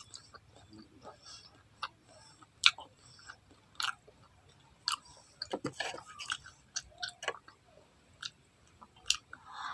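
A person chewing and biting a mouthful of fried Filipino street-food tempura close to the microphone, with irregular short mouth clicks and smacks.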